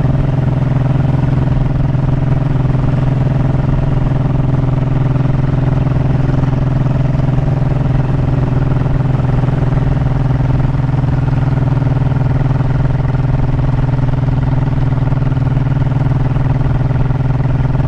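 Honda motorcycle engine running steadily at an even cruising speed, with no change in pitch.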